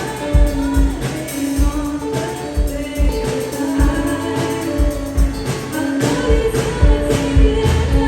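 Live band playing a pop song with a singer holding long notes over a steady drum beat of about two kicks a second.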